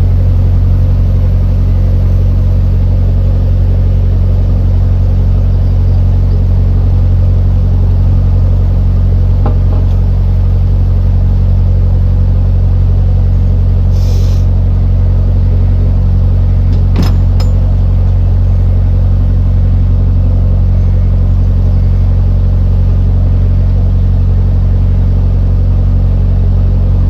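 Narrowboat diesel engine running steadily under way, a constant low drone. A short hiss about halfway through and a sharp click a few seconds later.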